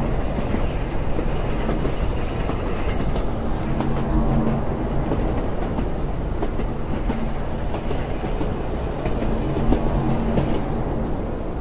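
Passenger train running, heard from inside a carriage: a steady low rumble of wheels on the rails with light clattering.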